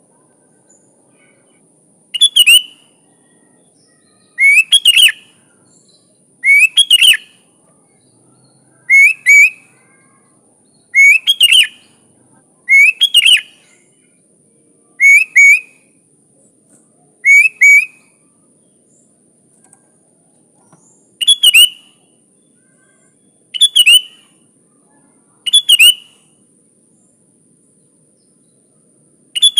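Sooty-headed bulbul singing: a short, loud, similar song phrase repeated about every two seconds, with a longer pause a little past the middle. A faint steady high-pitched hiss runs underneath.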